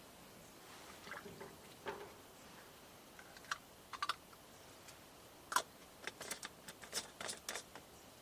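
Scattered light clicks and taps of small objects being handled, sparse at first and coming thick and fast through the second half.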